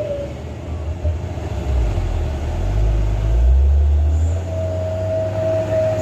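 Heavy diesel truck engine labouring under load, a deep rumble that swells about two to four seconds in, with a thin steady whine over it.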